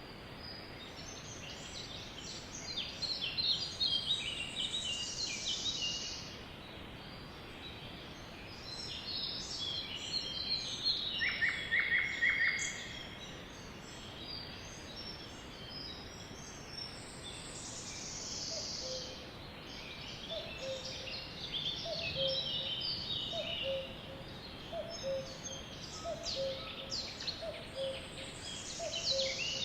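Sparrows chirping and chattering in a dense, overlapping chorus of short high chirps, with a few downward-sliding calls and a brief rapid trill. In the second half another lower, short call repeats about once a second.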